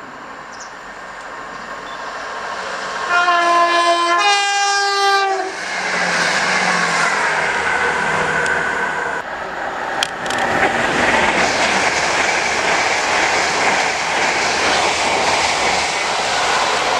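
A train approaches and sounds a two-note horn about three seconds in. It then passes close by at speed, with a loud, continuous rumble and wheel clatter.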